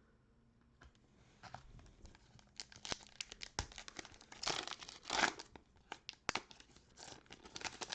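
Plastic cello-pack wrapper of 2020-21 Panini Prizm basketball cards being torn open and crinkled. It is a run of crackling rips that starts about a second in and is loudest around the middle.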